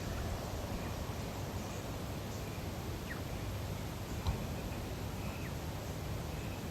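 Lakeside nature ambience: a steady low hiss with a few short, high bird chirps, and one sharp tick a little after four seconds.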